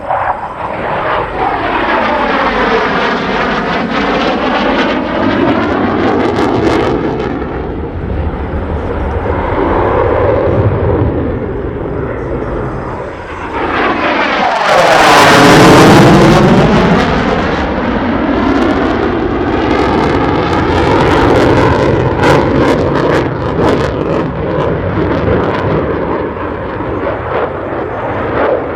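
USAF F-16 Viper fighter jet flying its demonstration, its jet engine noise swelling and fading with a sweeping, phasing shimmer as it moves about the sky. The loudest moment is a close pass about halfway through.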